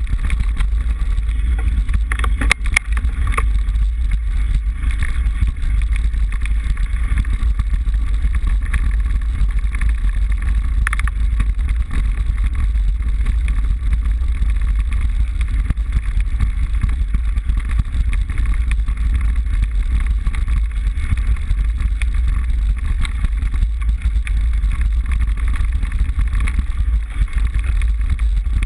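Steady wind rumble on the microphone of a handlebar-mounted GoPro HD HERO as a mountain bike is ridden, with a few sharp clicks from the bike about two and a half seconds in and again around eleven seconds.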